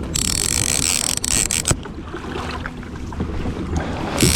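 Fishing reel whirring for about a second and a half near the start and again at the very end, as line works under load from a hooked king salmon. Wind buffets the microphone throughout.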